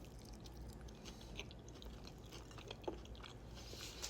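A person chewing food close to the microphone: faint mouth sounds with small scattered clicks, and one sharper click about three seconds in.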